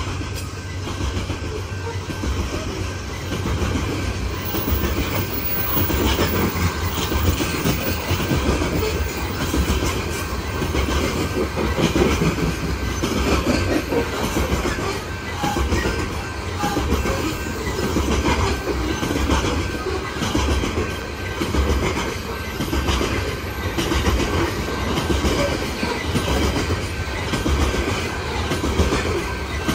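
Coal train's freight cars rolling past, steel wheels clattering steadily over the rail joints.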